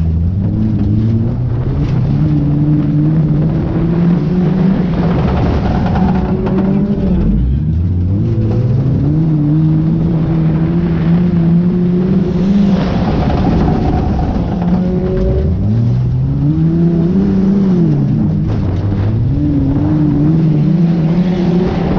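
Junk race car's engine running hard in a race heat. Its pitch drops and climbs again several times as it eases off and accelerates back up, over a constant rumble.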